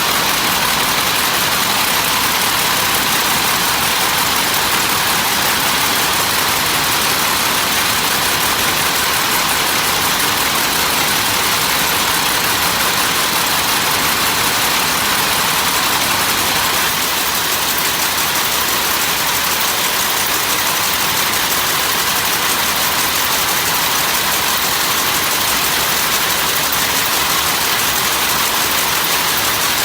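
Steady, loud machinery noise, an unbroken hissing din without separate strokes. It eases slightly a little past halfway.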